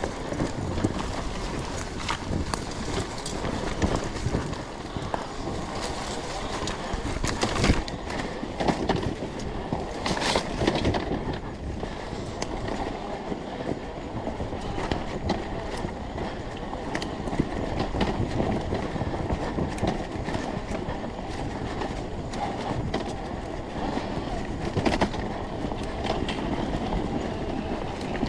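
Two-stroke enduro dirt bike being ridden along a trail: engine running under a constant rumble of wind and tyre noise, with scattered knocks and clatter from the bike over rough ground.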